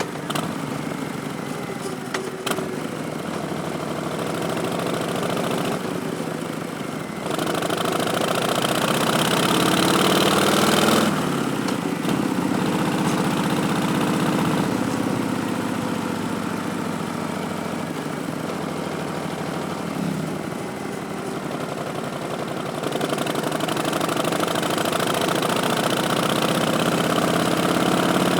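Harley-Davidson 2019 Street Bob's Milwaukee-Eight 107 V-twin through Vance & Hines Twin Slash slip-on exhausts, under way: the engine revs climb under throttle, then cut off sharply about eleven seconds in. The pitch falls off slowly on the overrun, and then the engine climbs again under throttle near the end.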